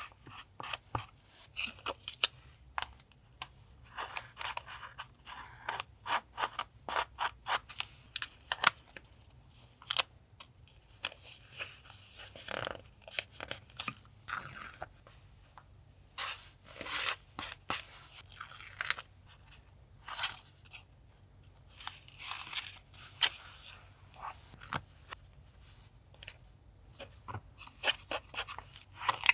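Close-up paper sounds of collage journaling: paper and stickers rustling and crinkling in many short, irregular bursts, with crisp clicks in between.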